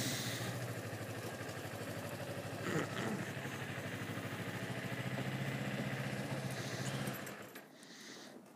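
Sport motorcycle engine idling steadily, with a brief clunk about three seconds in, then shut off about seven seconds in.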